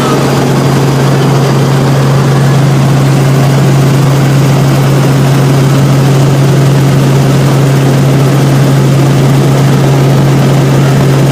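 Helicopter rotor and engine noise: a loud, steady drone with a strong constant low hum and an even hiss above it.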